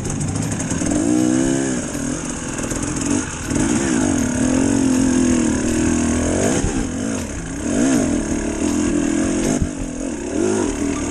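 Husqvarna enduro motorcycle engine revving up and down again and again as the throttle is worked, its pitch rising and falling in short surges.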